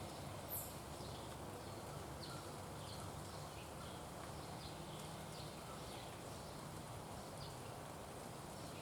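Birds chirping faintly outdoors: short high notes scattered irregularly over a steady low background rumble, with one brief, very high falling note about half a second in.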